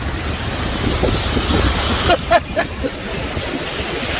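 Wind buffeting the microphone over the wash of ocean surf, a steady low rumbling noise. A few short pitched sounds break through about two seconds in.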